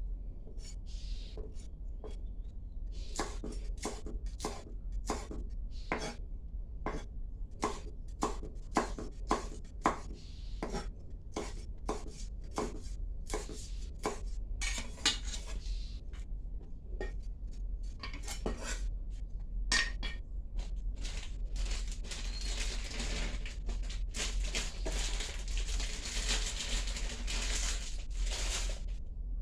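Metal utensils clinking and knocking against dishes and bowls, a string of separate knocks about one or two a second, then a denser stretch of scraping and rattling for the last several seconds.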